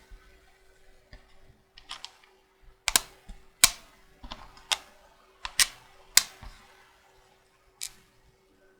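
Magnetic checkers pieces clicking sharply, about eight irregular clicks roughly a second apart.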